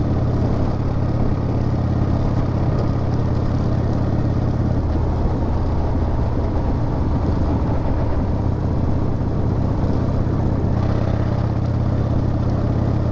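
Harley-Davidson V-twin engine running steadily while the motorcycle is ridden. The engine note shifts slightly about five seconds in and again near eleven seconds.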